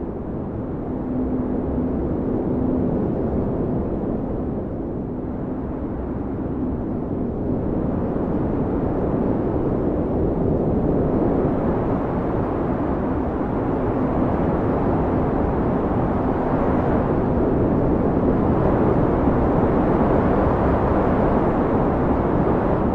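Blizzard wind blowing in heavy gusts: a steady low rushing that swells and eases over several seconds, with a faint howling tone that comes and goes.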